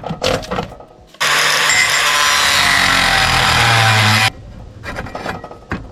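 Angle grinder cutting a slot in sheet metal for a damper: a loud steady grinding run of about three seconds that starts about a second in and stops abruptly. Light metal clatter before it.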